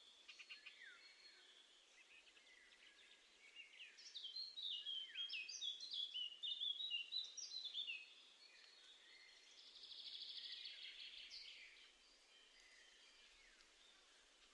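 Faint songbird song: a phrase of quick, varied high notes from about four to eight seconds in, then a fast high trill around ten seconds in, over a faint steady hiss.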